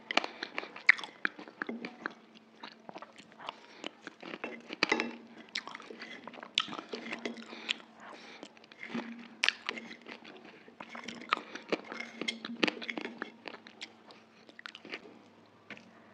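Close-miked eating sounds: wet chewing, biting and smacking of food, with wooden utensils clicking and scraping on a glass plate. The clicks come thick and irregular, over a faint steady hum.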